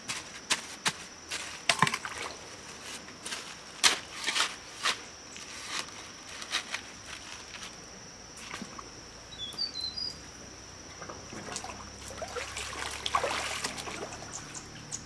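Outdoor ambience of irregular sharp clicks and knocks with some trickling water, over a steady high insect buzz. A brief bird chirp comes about ten seconds in.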